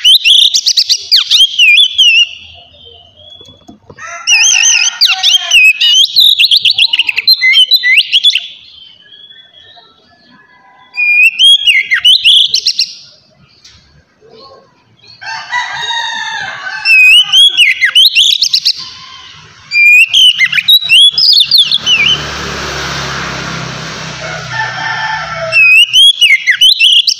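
Oriental magpie-robin (kacer) singing loud, fast whistled phrases with quick pitch slides, in repeated bursts with short pauses between them. About two-thirds of the way through, a rough hissing noise lasts about four seconds under the song.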